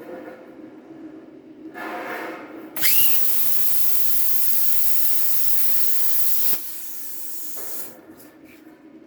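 A loud burst of compressed air hissing from a workshop air tool. It starts suddenly with a short rising whistle and runs for about four seconds, then drops abruptly to a quieter hiss for about a second before stopping.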